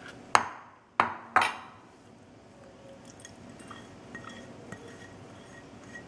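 Kitchen utensils clinking against a mixing bowl: three sharp clinks in the first second and a half, then faint small handling sounds.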